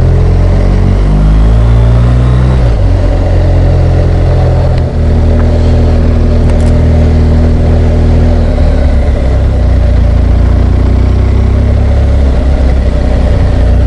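BMW R1200GS Adventure's boxer-twin engine under way. Its pitch rises for the first couple of seconds and drops about three seconds in as it shifts up, then it runs steadily, with rushing noise around the helmet-mounted microphone.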